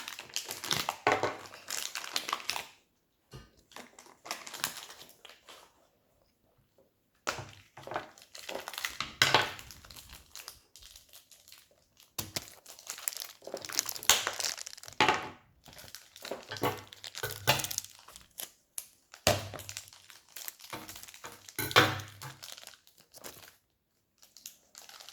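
Plastic toy packaging crinkling and rustling in bouts as blind packs are handled and torn open, with a few seconds' pause early on.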